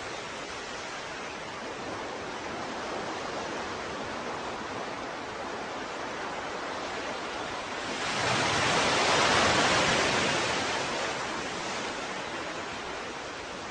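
Ocean waves as a steady wash of surf, with one wave breaking louder about eight seconds in and fading out over the next few seconds.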